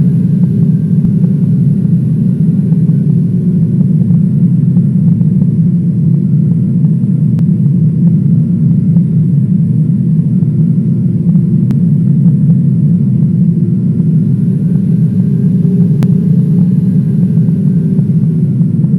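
Airliner engines heard from inside the cabin: a loud, steady low rumble with faint whining tones above it.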